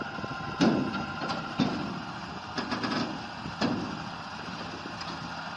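A vehicle engine running steadily, with several sharp knocks about a second apart, the loudest near the start.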